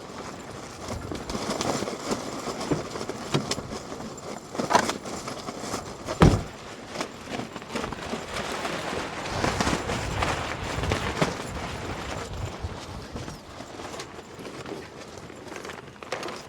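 Strong gusting wind rushing in waves, with scattered knocks and one sharp thump about six seconds in.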